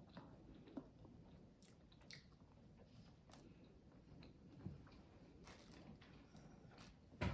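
Faint close-up chewing and biting of a small snickerdoodle cookie, with soft crunches and mouth clicks now and then, and one sharper knock right at the end.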